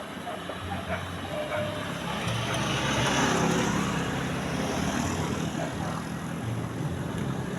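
A motor vehicle passing by, its engine and road noise growing louder about two seconds in and fading again after about five seconds.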